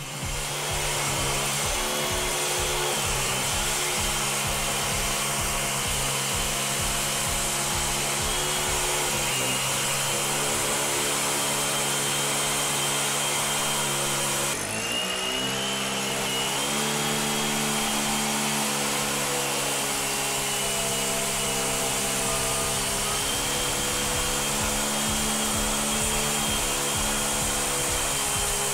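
Makita MM4 24.5cc mini four-stroke engine running steadily on a power tool, its speed dipping briefly about halfway through and then climbing back.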